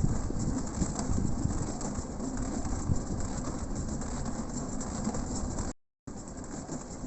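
A 1945 pedal rail-cycle draisine rolling along the track: a steady rumble of its wheels on the rails, with small clicks and rattles. It cuts out briefly near the end.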